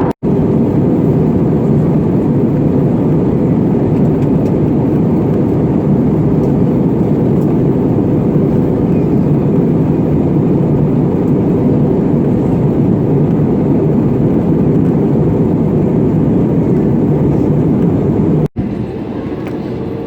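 Steady inside-cabin noise of an Airbus A320neo in flight: a loud, even rumble of engines and airflow with a faint steady hum. The sound cuts out abruptly for a split second twice, and it is a little quieter after the second cut near the end.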